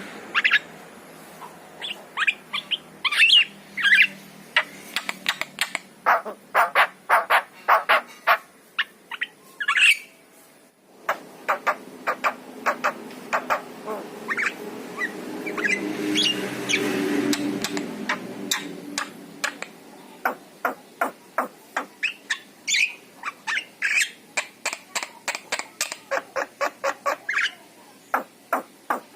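Javan myna (jalak kebo) calling: quick runs of short, sharp, clicking and squawking notes. There is a brief break about eleven seconds in, and a lower, buzzier stretch in the middle.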